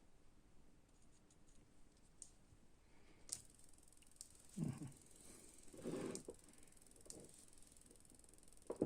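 Near silence: room tone with a faint steady high whine, one sharp click about three seconds in and a few soft brief knocks after it.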